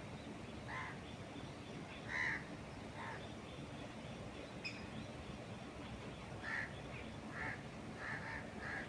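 A bird calling in short, separate calls, about eight spread across several seconds, some in quick pairs near the end, over a steady background hiss.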